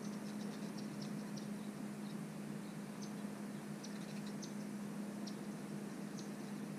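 Faint, short, high chirps of small birds, scattered irregularly, over a steady low hum.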